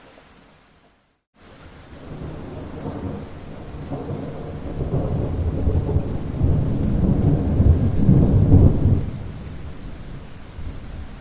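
Steady rain with a long roll of thunder. The sound cuts out briefly about a second in; the thunder then rumbles in, builds to its loudest near the end and fades back under the rain.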